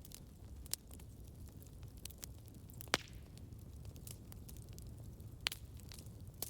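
A wood campfire burning: a low steady rumble of flames with scattered sharp crackles and pops, the loudest about three seconds in.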